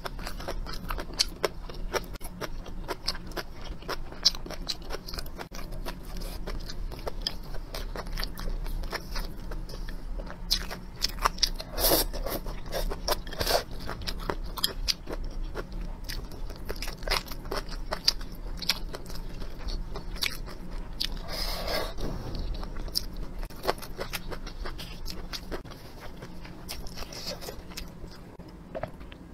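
A person chewing and crunching food up close, a steady run of small crunches and wet mouth clicks with a few louder bites, from a bowl of roast duck, whole fried green chili peppers and water spinach stems.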